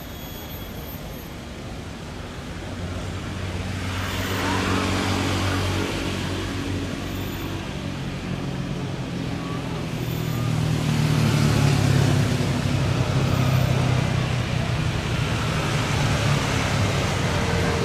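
Private jet's engines running at high power with a low steady hum and a rushing noise. The level builds from about two seconds in and peaks around twelve seconds in, as on the takeoff run.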